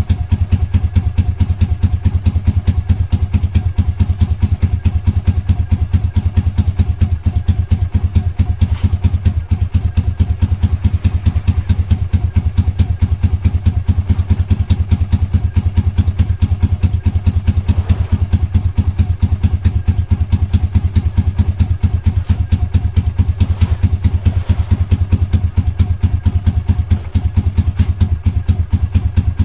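Honda GB250 single-cylinder four-stroke engine idling steadily with an even, rapid exhaust beat, run again after standing unused for a long time.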